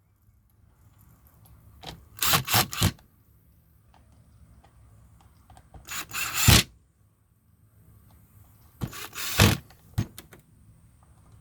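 Recoil starter of an Echo CS-303T chainsaw pulled three times, each pull a short rasping whir; the engine does not fire.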